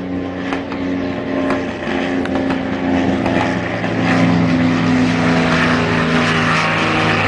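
Propeller aircraft engine running with a steady drone of several held tones and a rushing noise above it; one tone lowers in pitch around the middle.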